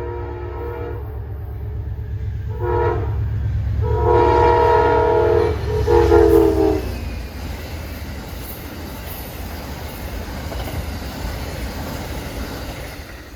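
Diesel freight locomotive's multi-chime air horn: a blast ending about a second in, a short blast about three seconds in, then two long blasts, the last one loudest and dropping in pitch as it ends. Under it the locomotive's engine and the train's cars rumble steadily, and the rolling rumble carries on after the horn stops.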